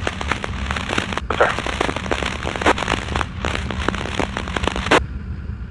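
Police scanner static: dense crackling of many sharp clicks over a steady low hum, cutting off suddenly about five seconds in.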